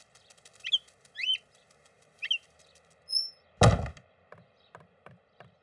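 Cartoon soundtrack: a bird chirps three times with short rising calls, then a single loud thump, followed by a run of light taps about four a second.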